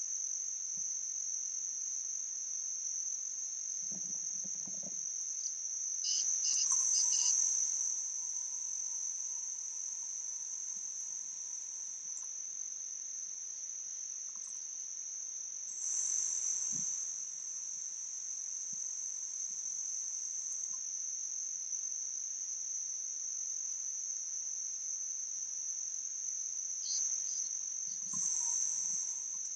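Steady high-pitched chirring of crickets. A few brief louder sounds rise over it, about six seconds in and again near sixteen and twenty-eight seconds.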